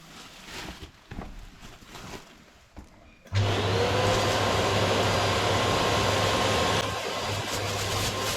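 A few faint handling knocks, then a vacuum cleaner switched on about three seconds in, running steadily with a low motor hum under a broad hiss.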